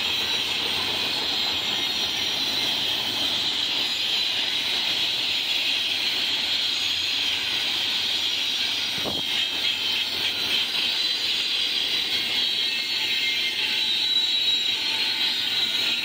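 Double-stack intermodal container train rolling past: the steady noise of its steel wheels on the rails, with a faint high squeal and a single sharp click about nine seconds in.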